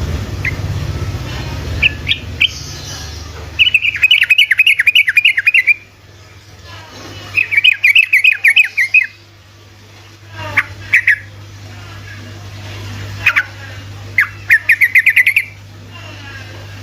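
Yellow-vented bulbul singing its fast chattering trill: three rapid runs of about two seconds each, with single sharp notes between them, over a steady low hum.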